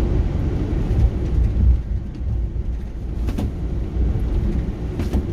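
Car driving slowly over a rough, patched road surface: a steady low rumble of tyres and running gear, with a couple of sharp knocks as it jolts over bumps.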